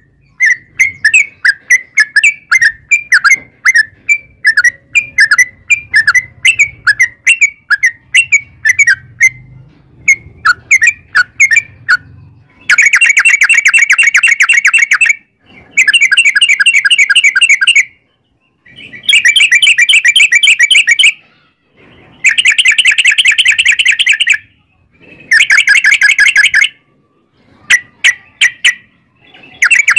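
Yellow-vented bulbul (trucukan) singing loudly: for about twelve seconds a quick run of separate bubbly notes, then long rapid-fire trilled phrases of two to three seconds each, repeated with short pauses, the 'ropel' song used as a lure to get other trucukan to answer.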